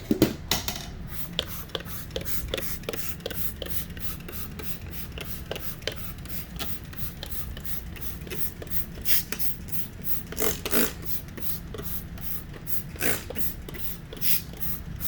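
Quick repeated rubbing and scraping strokes at an RV window, several a second, with a few louder knocks just after the start and again around the middle.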